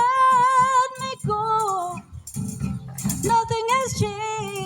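A woman singing long held notes with vibrato, without clear words, over an accompaniment with a steady beat. Her pitch drops about a second in, and she sings a new phrase about three seconds in.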